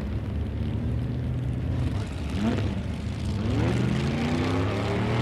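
Street stock drag cars' engines idling with a steady low rumble. From about two seconds in, engines rev up several times with rising pitch.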